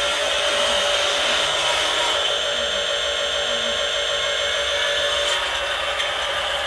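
Small electric motor and plastic gears of a radio-controlled toy truck whirring steadily, with a slight change in pitch about five seconds in.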